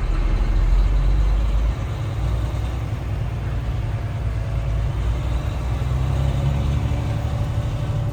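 Truck engine running with a steady low rumble, heard from inside the cab.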